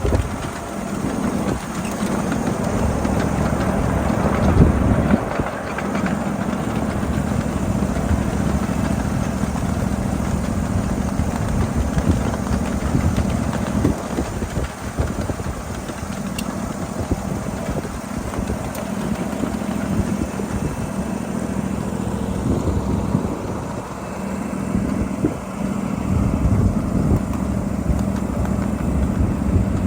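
A 7.5-inch gauge ridable miniature freight train running on its track, heard as a steady motor drone with a low hum and the rumble of the cars' wheels on the rails.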